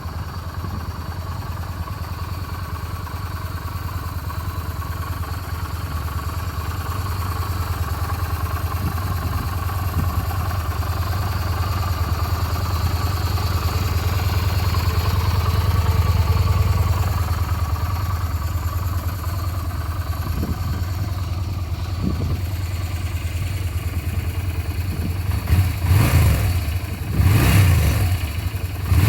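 Yamaha SRV250S's long-stroke 60-degree V-twin running at a steady, even idle with a low pulsing beat. Near the end it takes two or three short throttle blips.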